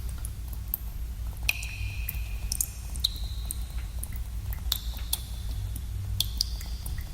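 Water drops falling into a pool in a cave. Scattered sharp drips, with a clearer plink about every second or two whose pitch rings briefly, over a steady low rumble.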